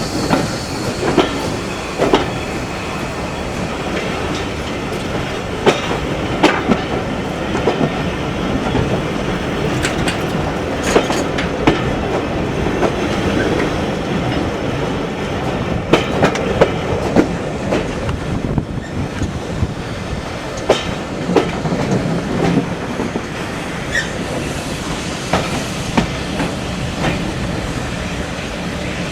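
Heritage railway train running. Its wheels make a steady rumble on the track and give repeated sharp clacks at irregular intervals as they pass over rail joints.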